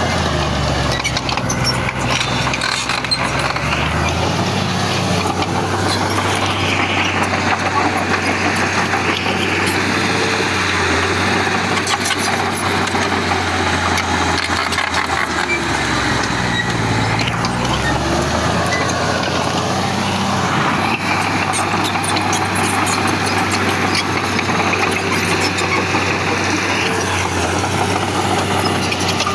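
Heavy diesel engine of earthmoving machinery running continuously under working load. The engine note shifts and recovers twice, a couple of seconds in and again about seventeen seconds in.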